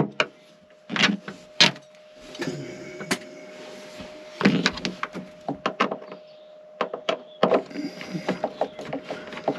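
Screws being backed out by hand with a screwdriver from the mounts of a trailer's battery tray: scattered clicks and knocks of the tool and metal, with a stretch of scraping.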